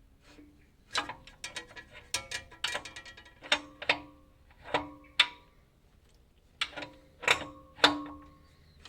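Spanner and socket clinking and ratcheting on bolts: a run of sharp metal clicks and clinks, each with a short ringing tone, some in quick runs, as the flex plate bolts are worked on.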